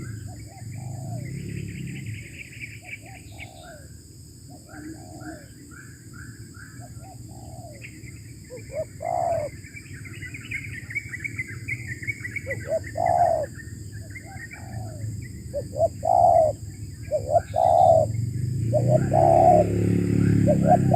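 Spotted doves cooing in short repeated phrases, the coos growing louder and more frequent in the second half, over the steady twittering of small songbirds.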